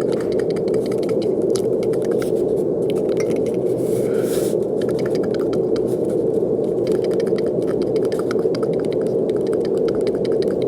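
Brown noise: a steady, deep rushing hiss with most of its weight low down, with faint scattered clicks on top and a short brighter hiss about four seconds in.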